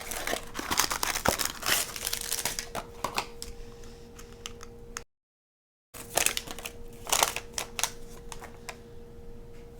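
Plastic packaging crinkling and small plastic building bricks clicking and rattling as a block set is unpacked, in a string of irregular sharp clicks and rustles. A faint steady hum runs underneath, and the sound drops out to dead silence for about a second midway.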